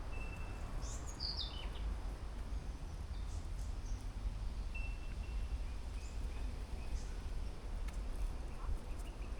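Outdoor garden ambience: birds calling, with a short downward-sliding call about a second in and a few thin high whistles, over a steady low rumble.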